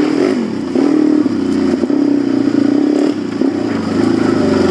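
Suzuki DR-Z400 dirt bike's single-cylinder four-stroke engine being ridden, its note rising and falling with the throttle; it drops briefly about half a second in, then picks back up.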